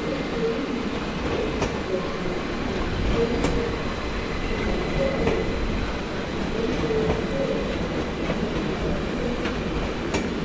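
Train pulling out of the station platform: a steady rumble, with the wheels clicking over rail joints about every two seconds.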